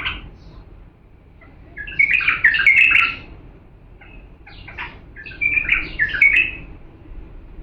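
A bulbul singing: two short phrases of quick, varied notes about three seconds apart, with a few single chirps between them.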